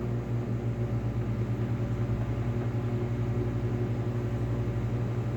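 Microwave oven running, cooking pasta in water at 50% power: a steady low electrical hum with a fast, even flutter in its loudness.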